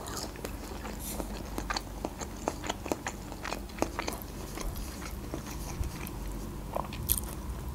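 Close-up mouth sounds of someone chewing a piece of broccoli: soft, irregular crunches and wet clicks, several a second.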